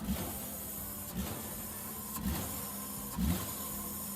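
A car engine running, with a dull low thump coming back evenly about once a second over a steady hum. The engine belongs to a car whose owner reports it jerks whenever the gas is pressed.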